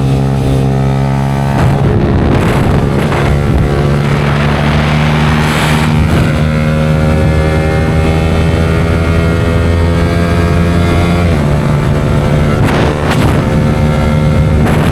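Yamaha R15 V4's single-cylinder engine running through an aftermarket Leo Vince exhaust while riding. The engine note holds steady and shifts pitch twice, at about a second and a half in and again past the ten-second mark, with gusts of wind on the microphone.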